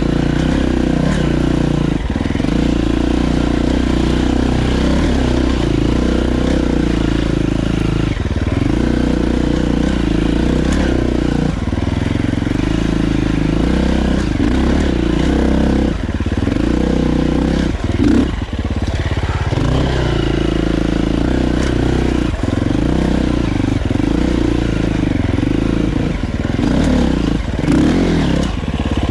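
Dirt bike engine running while riding. Its note rises and falls repeatedly with the throttle.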